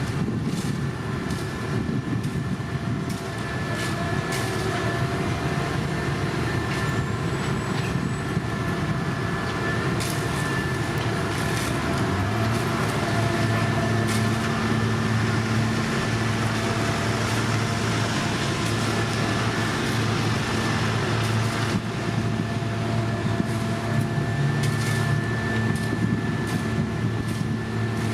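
Heavy diesel road-paving machinery running steadily, with a low engine drone that settles into an even pitch a little before halfway, a faint steady whine above it and a few light clicks and knocks.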